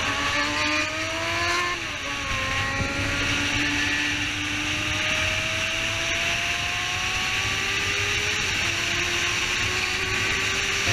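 A 600 cc inline-four sport bike engine accelerating hard. It shifts up about two seconds in, then climbs steadily in pitch through the next gear and eases off about eight seconds in, under heavy wind rush on the microphone.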